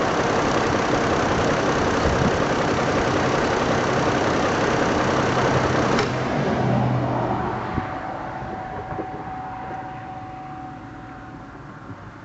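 Chevrolet Trailblazer engine running steadily, then shut off about six seconds in, with a click and the sound dying away over the next two seconds.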